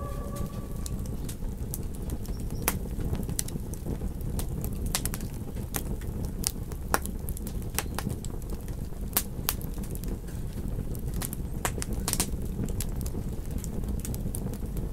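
Campfire crackling: a steady low rumble of burning wood with irregular sharp pops and snaps. The tail of a wolf howl fades out in the first second.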